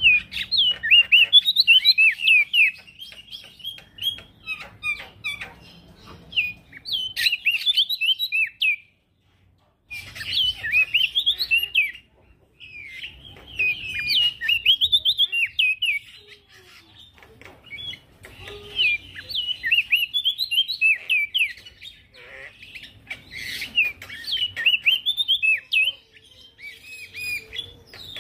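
Male prenjak daun songbird singing a rapid, high twittering song of quick up-and-down notes. It comes in phrases of a few seconds with short pauses between them.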